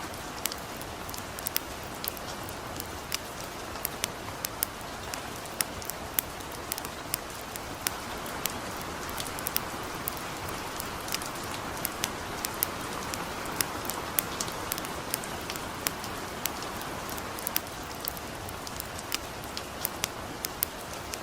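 Steady light rain hissing, mixed with a campfire crackling: frequent irregular sharp pops and snaps, several a second.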